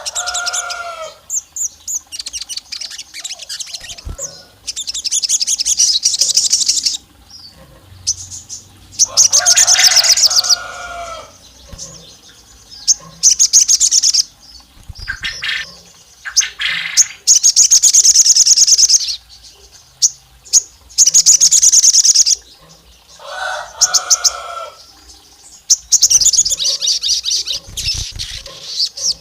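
Sogon songbird singing: bursts of rapid, high chirping trills a second or two long, repeating every few seconds, with a few lower, slurred notes mixed in near the start, middle and end.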